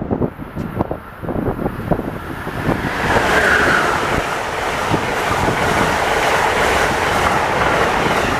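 A passenger train behind the steam locomotive N&W 611 is moving. Irregular knocks and clatter come first, then a steady, louder rushing noise from about three seconds in.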